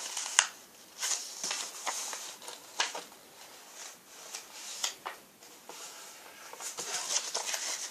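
A sheet of paper being folded and creased by hand: rustling and crinkling on and off, with a few sharper crackles.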